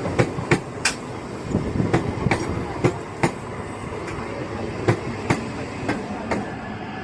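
Train running on the rails: a steady rumble with sharp, irregularly spaced clacks of wheels over rail joints, which come less often in the second half.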